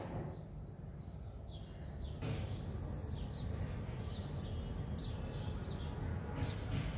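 Small birds chirping faintly and repeatedly over a low, steady background rumble.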